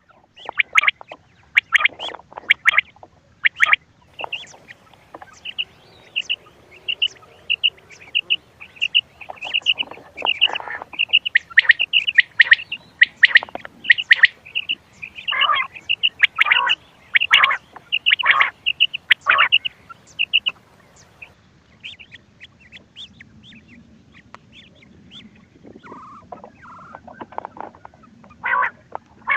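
Quail calling, played from a hunting call recording: runs of short high chirps, about three a second, mixed with harsher, lower calls. The calls thin out about two-thirds of the way through.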